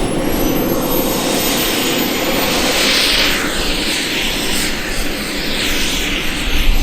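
Turbine engine of a large RC model jet in flight: a high thin whistle that climbs in the first second and then holds, over a loud rushing jet hiss that swirls and sweeps as the jet moves through the sky.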